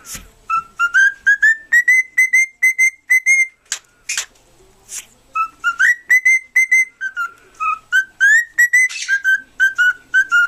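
Cockatiel whistling a tune: a run of short clear notes climbing step by step and then repeating on one pitch, a second climbing phrase after a short break, with a few short sharp noises in between.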